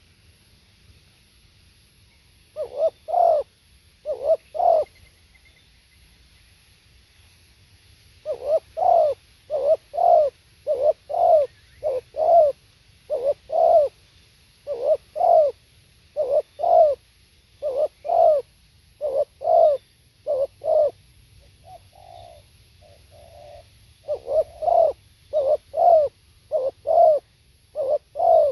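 Spotted dove cooing: a short group of coos a few seconds in, then, after a pause, a long run of repeated coo phrases of two or three notes each, about one phrase every second and a half.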